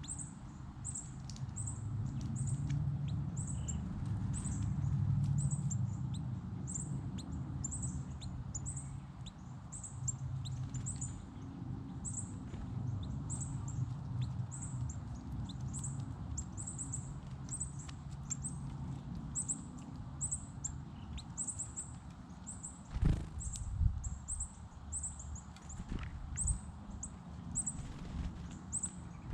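A small bird repeating a short, high-pitched chirp about twice a second, over a steady low rumble. A few sharp knocks come near the end.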